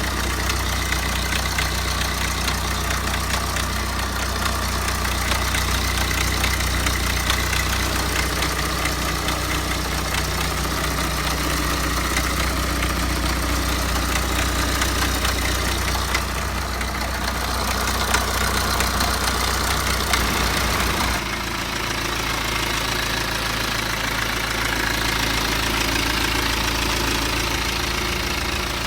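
BMW N47 four-cylinder diesel in a 2008 E90 320d idling, with a fast rattle from its worn timing chain. About three-quarters of the way through, the sound cuts abruptly to the same engine idling after the timing chain has been replaced.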